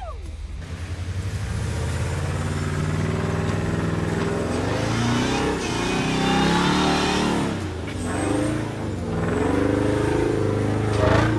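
Off-road vehicle engine revving, rising and falling in pitch several times under a steady low drone, as it works its way over the trail.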